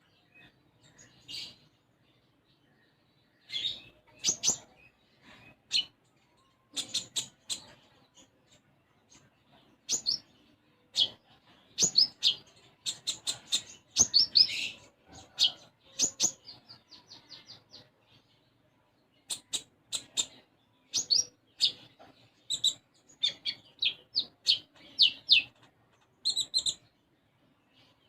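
Konin songbird singing in bursts of short, sharp chirps, with sparrow-like chirping worked into its song, and a quick run of repeated notes about halfway through.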